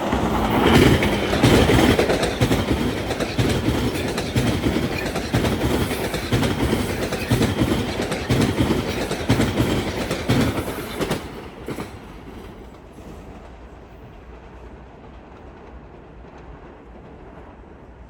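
Metro-North commuter train passing at speed, its wheels clacking over rail joints in a repeating rhythm. The train noise ends suddenly about eleven seconds in, leaving a quieter steady hiss.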